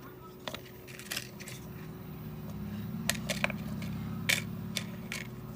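Scattered light clicks and taps of a phone and small repair tools being handled on a workbench, over a low hum that grows louder about two seconds in.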